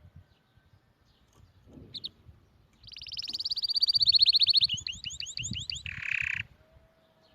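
Domestic canary singing one phrase: a short high note, then a fast high trill lasting almost two seconds, a run of about six quick downward-sweeping notes, and a short harsh buzzy note that ends it.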